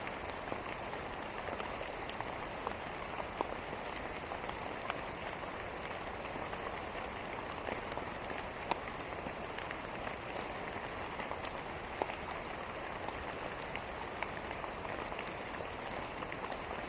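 Steady rain falling, a constant hiss with many sharp drop ticks scattered through it.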